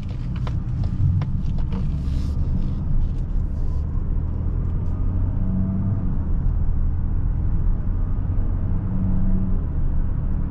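Cabin sound of a 2025 Mazda CX-70 Turbo S's turbocharged 3.3-litre inline-six under a gentle, regular acceleration: mostly a steady low engine and road rumble, with the automatic shifting smoothly and holding revs under 2000 RPM. A few light clicks sound in the first few seconds.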